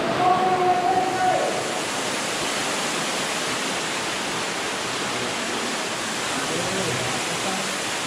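Ruby Falls, an underground cave waterfall, pouring with a steady rush of water. Voices are faintly heard in the first second or so and again near the end.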